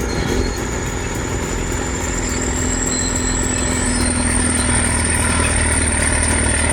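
Old T-130 crawler bulldozer's diesel engine running smooth and steady, with a thin high whine above it that steps up in pitch about four seconds in.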